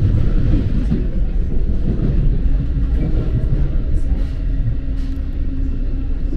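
Low, steady rumble of a moving NJ Transit commuter train, heard from inside the passenger car.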